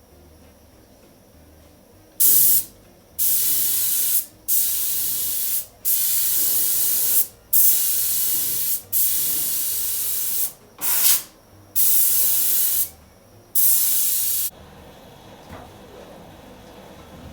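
Compressed-air paint spray gun spraying primer in a series of about nine hissing passes, each up to about a second and a half long with short pauses between, then stopping.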